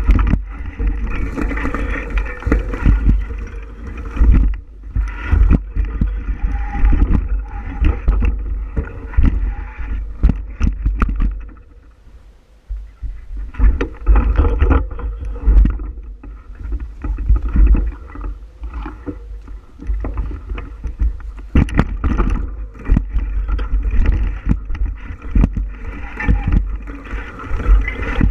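Riding noise of a bicycle on a trail: wind rumbling on the microphone, with frequent knocks and rattles from the bumps. It goes quieter for a moment about twelve seconds in.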